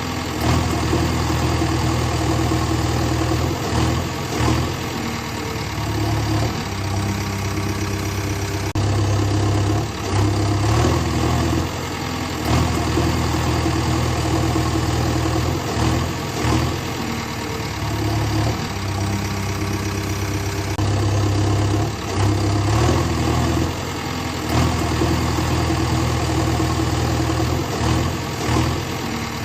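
Engine running near idle, its low note stepping up and down every few seconds as the load on it changes.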